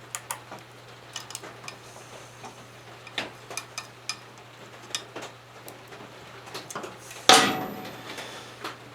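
Small metallic clicks and clinks of hand tools and engine parts being handled, with one loud ringing metal clank about seven seconds in. A steady low electrical hum runs underneath.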